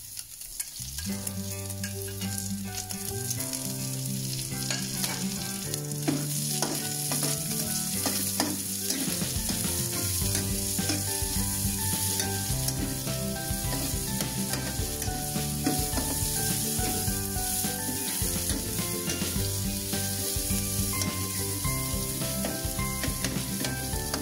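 Chopped onions, garlic and ground pork sizzling in hot oil in a wok, stirred and scraped with a metal spatula. The sizzle swells about a second in, as the onions hit the oil, and runs on with frequent clicks of the spatula against the pan.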